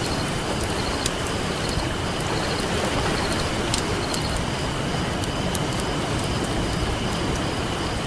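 Steady wash of ocean surf, with the sharp pops and crackles of a wood campfire scattered through it.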